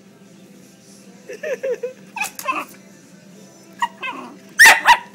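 Jack Russell terrier whining and yipping in short excited cries, worked up at a bird, ending in two loud sharp yelps near the end.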